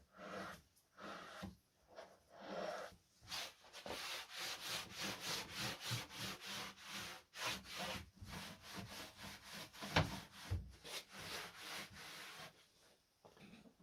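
Quick back-and-forth rubbing strokes on wood, a few a second, starting unevenly and then settling into a steady rhythm, with one sharp knock about ten seconds in.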